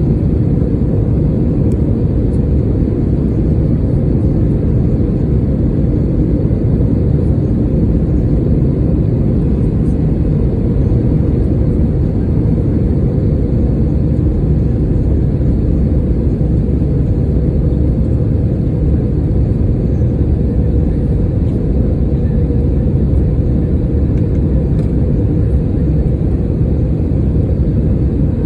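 Steady, loud low rumble of an airliner cabin in flight: engine and airflow noise.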